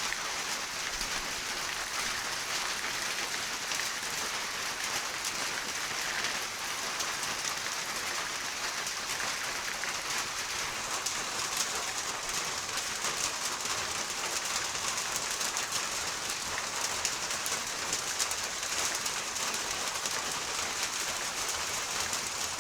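Steady rain falling: an even hiss of drops with a fine patter running through it.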